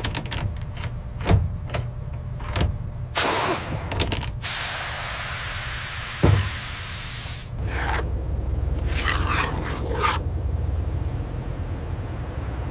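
Sharp clicks and knocks, then a loud hiss of spray or escaping air lasting about three seconds. Then a low steady rumble with a few short hissing bursts.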